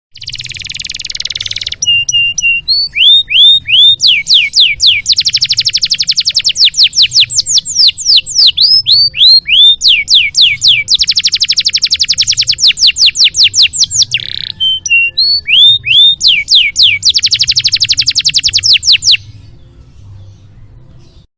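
Domestic canary singing a long, loud song: runs of rising slurred notes alternating with very fast rattling trills, three long trill stretches in all, stopping suddenly about 19 seconds in.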